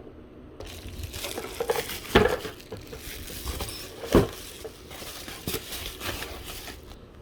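A cardboard box being opened and its packaging handled: steady rustling and crinkling, with a few sharp knocks, the loudest about two and four seconds in.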